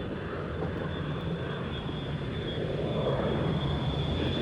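Jet airliner engines at an airport runway, a steady rumble with a thin high whine, slowly growing louder.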